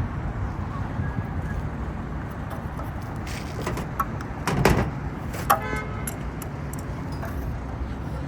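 Metal parts of an air conditioning unit clanking under hand work: a knock about halfway through and a sharp metallic clink that rings briefly, over a steady low background rumble.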